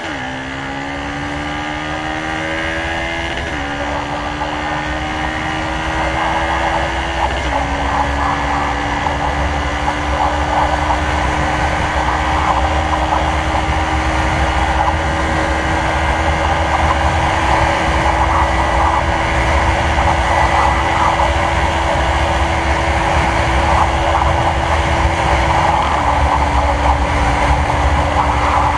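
Yamaha motorcycle with a slip-on Kalkal exhaust pulling hard at full throttle on a top-speed run, shifting up about three and a half seconds in, about seven seconds in, and again near the end, the engine note otherwise held high and steady. A rush of wind noise grows as the speed builds.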